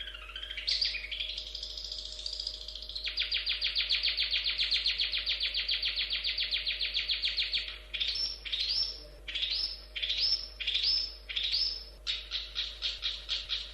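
Long-tailed shrike (cendet) singing: a short varied warble, then from about three seconds a fast, even run of repeated sharp notes. Around the middle it breaks into separate down-slurred notes about twice a second, and near the end it returns to a fast repeated run.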